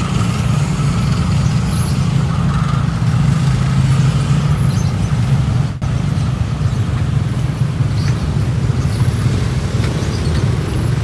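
Steady, loud low rumble of heavy engines at a railway level crossing, with a brief dropout about halfway through.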